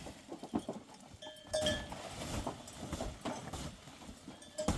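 Livestock neck bells ringing in short jangles, about a second and a half in and again near the end, among irregular clattering knocks from the flock.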